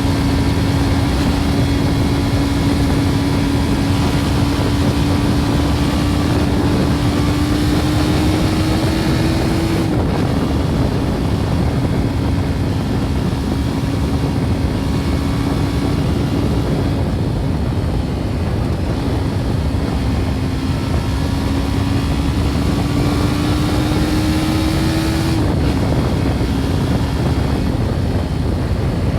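BMW G310 R's 313 cc single-cylinder engine under way through its original exhaust. The engine note climbs slowly, drops suddenly about ten seconds in, and does the same again near 25 seconds, like upshifts, with a strong rush of wind and road noise throughout.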